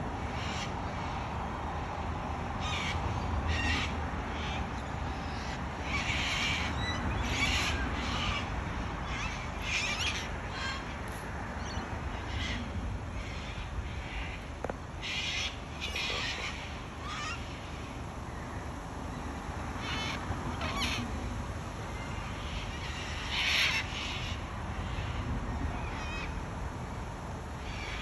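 Wild cockatoos screeching: many short, harsh calls coming irregularly throughout, one after another, with the loudest about three-quarters of the way through.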